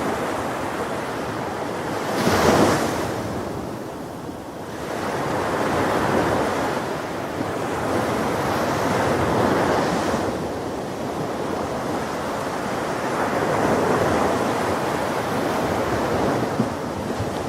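Ocean waves breaking on a shore: one loud crash about two seconds in, then softer waves rising and falling in slow swells.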